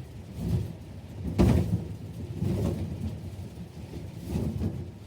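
Inflated balloons being handled and piled up, bumping and rubbing together in low, irregular thuds and rustles, with a louder thud about one and a half seconds in.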